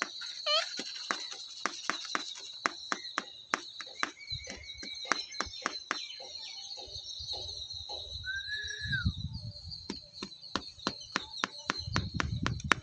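Continuous high chirping of birds, with sharp clicks two or three times a second throughout and one short falling whistled call about eight seconds in.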